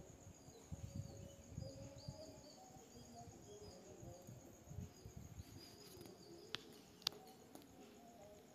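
Faint background birdsong, short chirps repeating, over low room noise, with two sharp clicks near the end.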